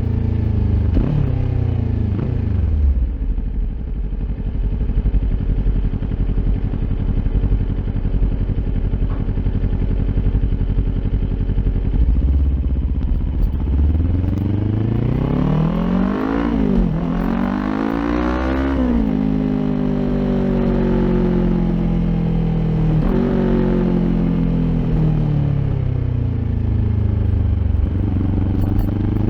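Kawasaki Ninja 400's parallel-twin engine through an Akrapovic aftermarket exhaust while riding. The revs fall at first and then hold low and steady. About halfway through they climb twice with a quick upshift between, fall away through a downshift, and start climbing again near the end.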